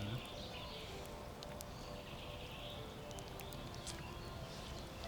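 Campfire crackling faintly, with scattered sharp pops and ticks over a low outdoor background.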